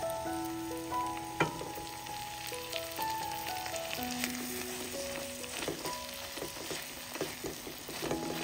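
Food frying in oil in a pan, a steady sizzle with many short crackles that grow busier in the second half. Soft melodic music notes play over it.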